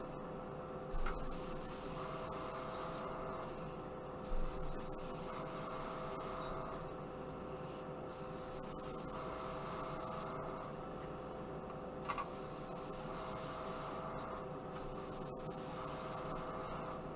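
Airbrush spraying paint in short passes: a hiss that comes and goes every few seconds as the trigger is worked, over a steady hum. This is mottling over the base coat of a plastic model.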